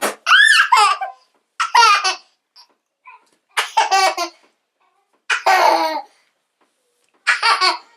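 Young child laughing in about five separate bursts, each under a second, with short pauses between, during rough-and-tumble play.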